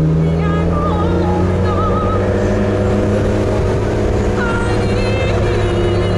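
Engine and road noise of a BMW M3 heard inside its cabin while it cruises along a winding road, with a steady engine note that eases down slightly in the first couple of seconds. Faint high warbling tones come and go above it.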